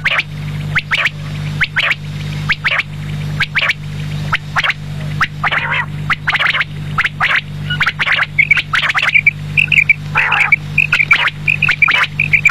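Quail calling over and over, sharp short notes often in quick groups of three, over a steady low hum.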